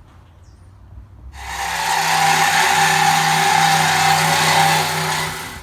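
A power tool starts about a second in, runs steadily for about four seconds with a harsh hiss and a steady whine, then stops.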